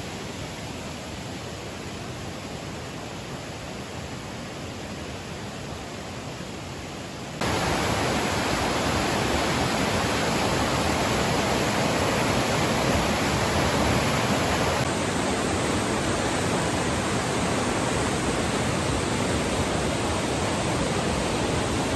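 Steady rushing water, an even, continuous noise that jumps louder about seven seconds in.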